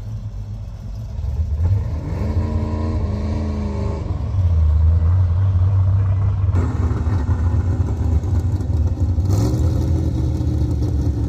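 Car engine with a deep exhaust rumble driving off, revving up and back down about two seconds in and again near the end.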